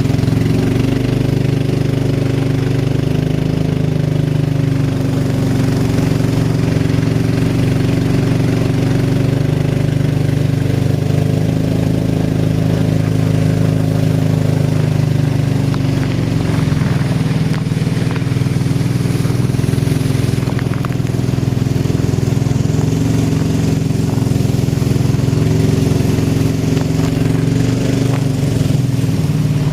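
A vehicle engine running steadily at an even speed, loud and close.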